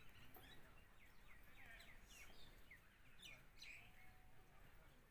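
Faint chirping of small birds: many short, quick calls, some sliding downward in pitch, over a near-silent background.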